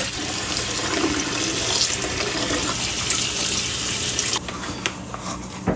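Kitchen tap running onto salted cabbage as it is rinsed and pulled apart, water splashing over the leaves. The water stops about four seconds in, leaving a few light handling sounds.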